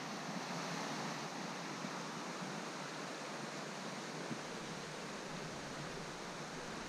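A shallow, rocky river flowing past, a steady rush of water with no let-up. A faint low rumble joins about four seconds in.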